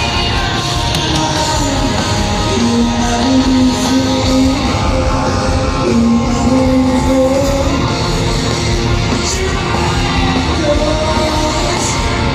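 Heavy rock music with electric guitar and a held, sung melody over a dense, steady band mix.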